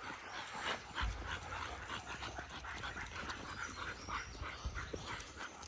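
Dogs on a walk making short, quick, repeated sounds, several a second, with no clear bark.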